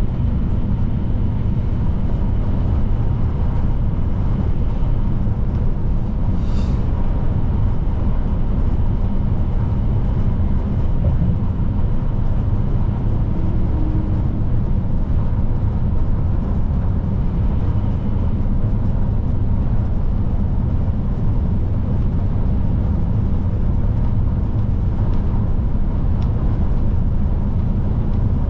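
Scania P310 truck's diesel engine and road noise giving a steady, unbroken low drone while the truck drives along the freeway.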